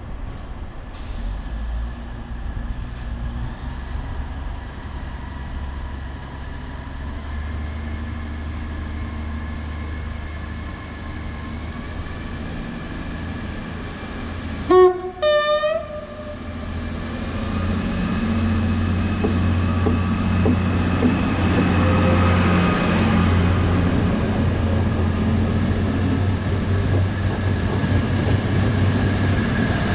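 A train running and drawing nearer, its hum rising gradually in pitch. About halfway through it sounds a short horn blast, and after that the running noise grows louder.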